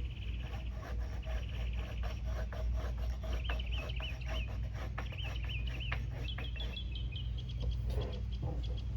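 Mora knife cutting and scraping into oak wood: a steady run of short clicks and scrapes. A bird calls in three quick warbling phrases a few seconds in, over a low steady hum.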